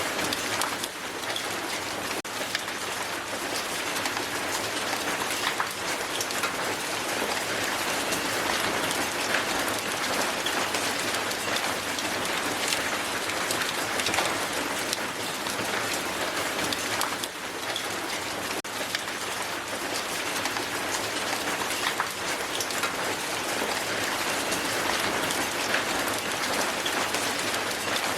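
Hail falling on the ground: a steady, dense shower of many small ice impacts that never lets up.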